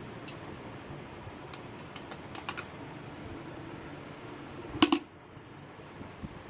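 A scatter of light clicks and taps from objects being handled, with a louder double click about five seconds in, over a steady fan hum.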